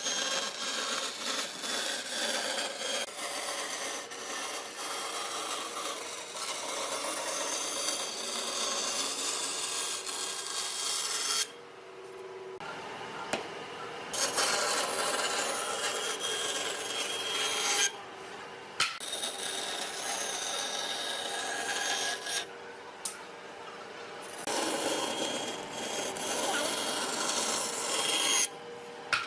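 Continuous scraping and rubbing, like a rasp or abrasive worked by hand over wood, interrupted by abrupt breaks about a third of the way in, around the middle, a little past two-thirds, and just before the end.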